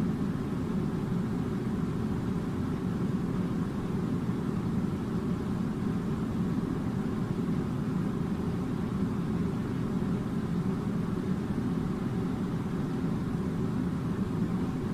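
Air conditioner running with a steady low hum and rumble that does not change.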